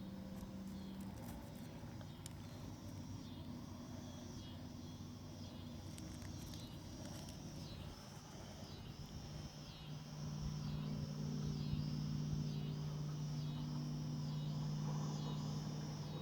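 Outdoor ambience: a high-pitched animal call repeating about twice a second, with a low steady hum that gets louder about ten seconds in.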